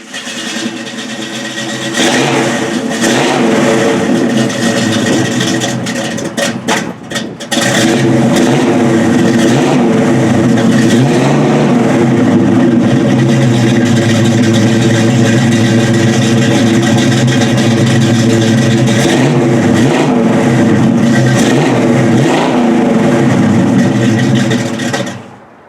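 Chevy 350 V8 running loud through its aftermarket mufflers, which the owner takes for Flowmaster Super 40s. It runs steadily, with a few short dips early on and several rises and falls in revs later. It cuts off abruptly near the end.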